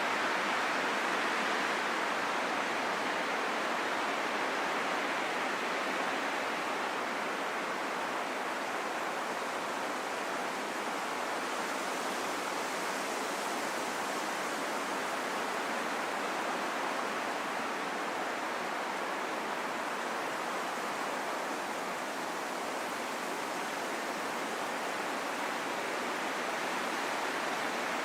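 Steady wind, an even rushing noise that swells and eases slowly and turns a little hissier around the middle.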